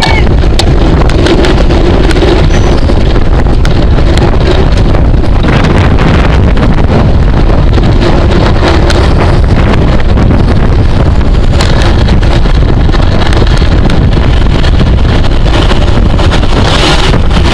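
Loud, steady wind rush buffeting the microphone of a camera riding on a racing bicycle at speed, mostly a low rumble with faint scattered ticks.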